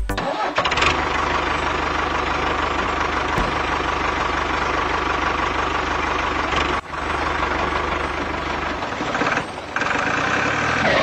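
Homemade mini tractor's small motor and gear drive running steadily under load, dropping out briefly about two-thirds of the way through and again near the end.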